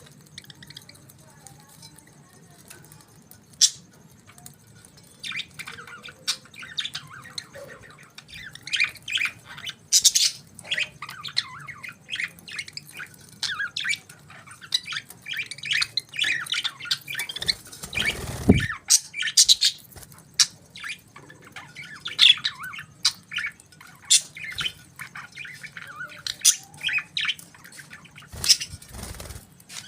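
Budgerigars chirping and chattering in quick, busy runs of short, high calls, sparse at first and then almost continuous from a few seconds in. One dull thump comes past the middle.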